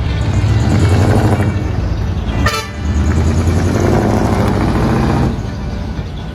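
Decorated truck's engine revving through a dual-muffler exhaust, a deep rumble that swells twice, with a short sharp high blast between the two revs.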